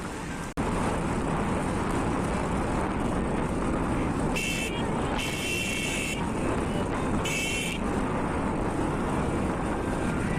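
Motorbike riding with steady engine and road noise, and a horn sounding three times around the middle: a short honk, a longer one, then another short one.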